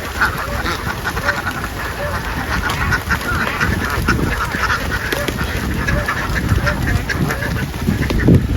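A large flock of domestic ducks quacking, many birds calling at once in a dense, continuous din.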